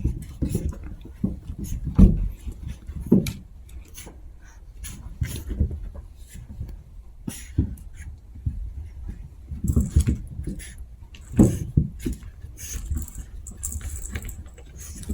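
Chihuahua puppies at play: irregular scuffling, small thumps and short little dog sounds, with a louder bump about two seconds in and another later on.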